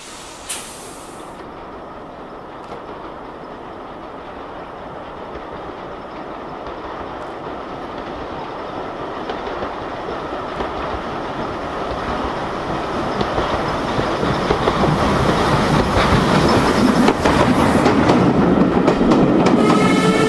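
Steam-hauled train carriages running on the rails, the wheels clicking over the rail joints and growing steadily louder as the train gathers speed. A steady pitched tone joins right at the end.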